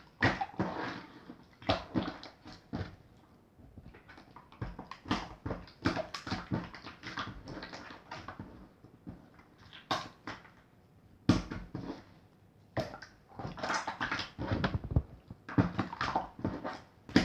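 Clear water-jelly slime squeezed and poked by hand, making irregular sticky clicks, squelches and small pops, with a brief lull about halfway through.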